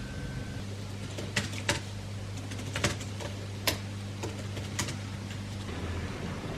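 A handful of sharp, unevenly spaced keyboard key clicks over a low steady electrical hum.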